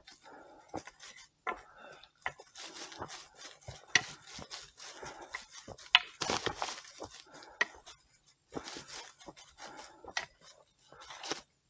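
Footsteps of hikers on a forest trail: irregular scuffs, crunches and knocks, with no steady rhythm.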